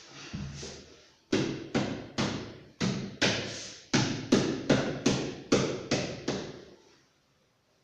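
A steady run of about a dozen sharp tapping knocks, two to three a second, that stops about a second before the end.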